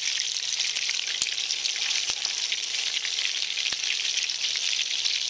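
Cracker-breaded chicken-fried steaks sizzling in hot oil in a skillet: a steady frying hiss with a few sharp crackling pops.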